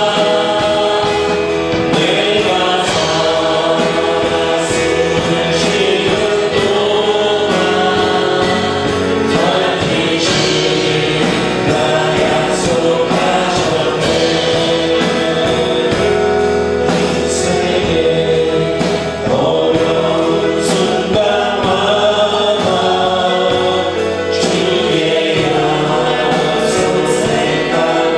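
A congregation or choir singing a Korean gospel worship song with instrumental accompaniment and a steady beat.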